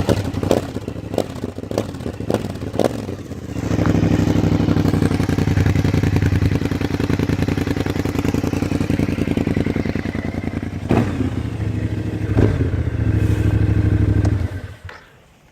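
Kymco AK 550 maxi-scooter's parallel-twin engine running through an Akrapovic exhaust at a steady pitch, with a few sharp knocks in the first seconds. It grows louder after about four seconds and stops about a second before the end.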